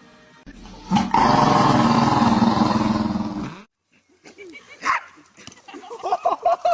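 A dog vocalizing: a loud, rough, sustained sound that runs for about two and a half seconds and cuts off suddenly. Fainter, varying calls follow.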